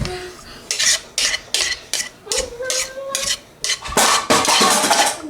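A utensil scraping cake batter around a mixing bowl and into cake pans, in repeated short strokes about two a second.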